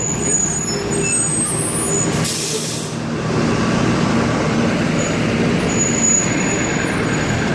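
Buses pulling in with engines running, and a short air-brake hiss a little over two seconds in.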